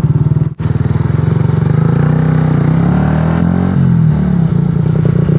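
Yamaha YZF-R125 single-cylinder 125 cc engine running while riding, heard from the rider's own bike as a steady pulsing thrum. The sound cuts out for an instant about half a second in, and the engine note slides up and down a little around the middle.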